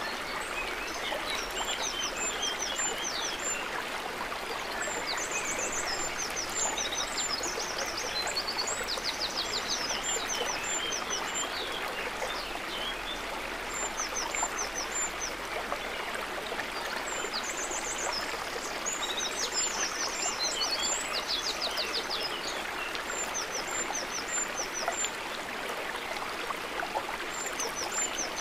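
Steady trickling, gurgling water with many short, high bird chirps and a few quick trills scattered over it.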